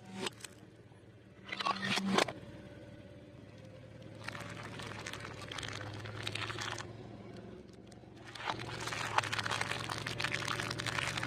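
Food being crushed under a car: crunching and crackling in two spells a few seconds long, after a few sharp cracks in the first two seconds, over the steady low hum of the car.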